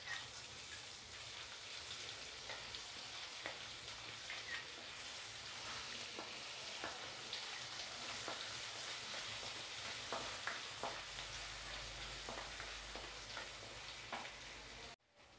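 Ginger-garlic paste frying in oil and butter in a metal kadai: a steady sizzle with scattered crackles, and a wooden spatula scraping as it is stirred. The sound cuts out briefly near the end.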